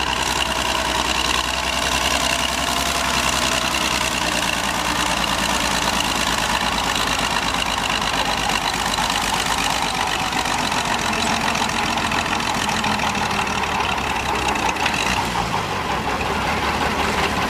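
Oliver 88 tractor's six-cylinder engine running steadily at a tractor pull.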